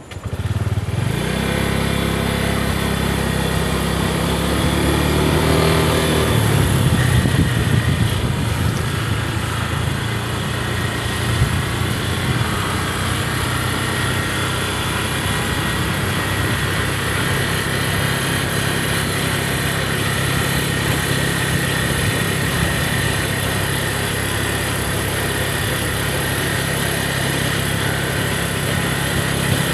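Small motorcycle engine running, rising in pitch over the first few seconds as it gets under way, then holding a steady note.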